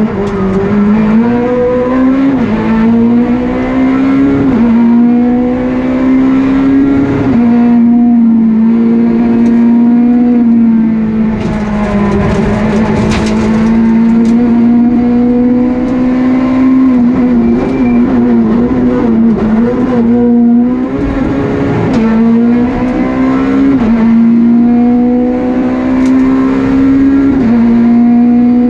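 Peugeot 208 R2 rally car's four-cylinder engine held at high revs, heard from inside the cabin. Its pitch stays high and steady and jumps up or down at each quick gear change every few seconds.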